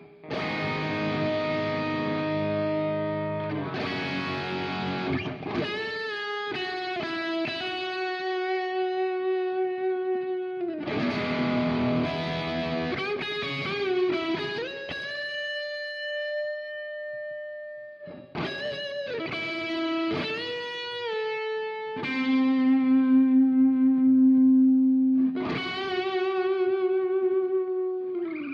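Electric lead guitar playing a slow melodic interlude: a full chord rings near the start, then long sustained single notes joined by slides and bends, with vibrato on the held notes.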